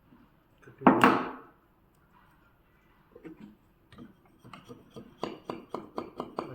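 Wooden parts being worked by hand: a short scraping rustle about a second in, then a run of light knocks that grow louder and come about four a second.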